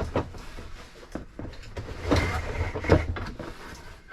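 Plastic toy parts and packaging being handled and pulled out of a box: rustling with a run of clicks and clattering knocks, the loudest about two and three seconds in.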